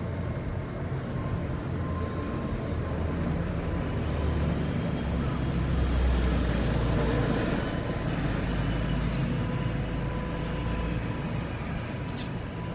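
A motor vehicle passing, its low rumble building to a peak about halfway through and then fading away.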